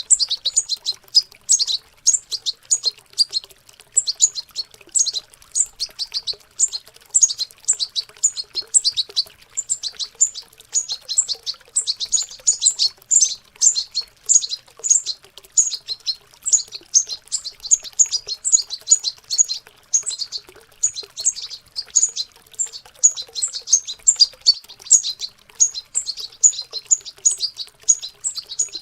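Young European goldfinches twittering in their early, rambling practice song: a dense, unbroken run of rapid high chirps.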